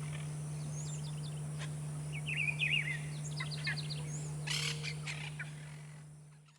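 Lesser kiskadee calling: repeated fast, chattering phrases, over a steady low hum. The sound fades out near the end.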